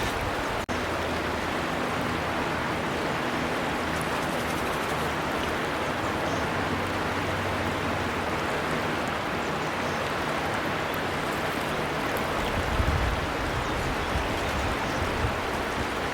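River water flowing in a steady, even rush, with a momentary drop-out a little under a second in. A low rumble builds under it in the last few seconds.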